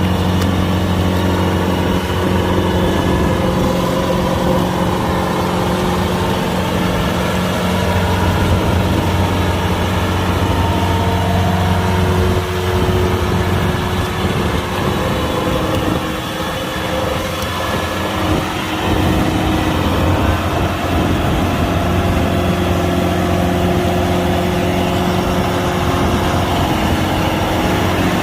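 Kubota DC-105X combine harvester's diesel engine running steadily with a low hum. It wavers and dips slightly around the middle, then settles back.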